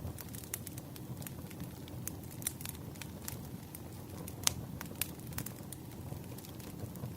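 Wood fire crackling: irregular sharp pops and snaps over a low, steady rumble of burning logs, with one louder pop about four and a half seconds in.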